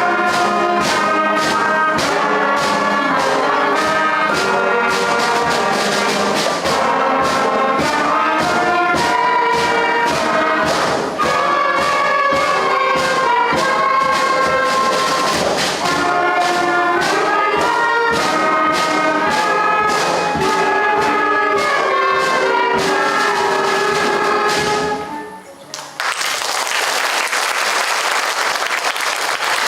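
A school concert band with brass playing a piece, ending with a held chord about 25 seconds in. The audience then breaks into applause.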